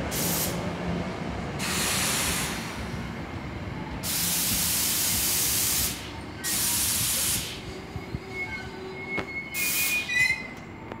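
NJ Transit MultiLevel commuter train rolling slowly to a stop, its air brakes letting out several sharp bursts of hiss over a low rumble. A short high squeal comes from the wheels and brakes near the end as the train halts.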